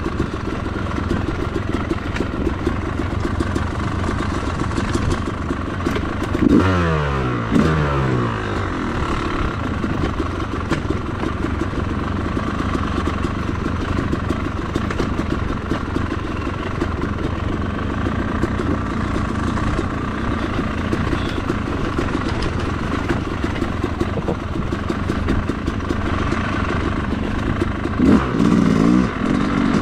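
Yamaha YZ250 two-stroke dirt bike engine running steadily on the trail, with a quick rev changing in pitch about six and a half seconds in and another louder burst of throttle near the end.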